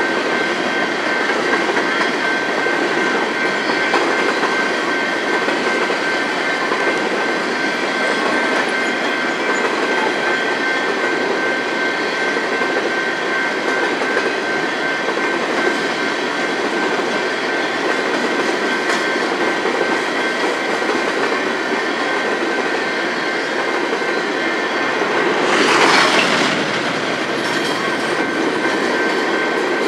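Coal train's hopper cars rolling past on the rails, a steady rumble of wheels with clickety-clack over the rail joints. A thin, steady high tone runs through it, and a louder rushing swell comes about 26 seconds in.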